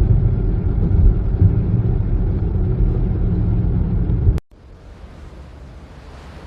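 Loud, steady low rumble of a moving vehicle, cutting off abruptly about four and a half seconds in to a much quieter, steady hiss.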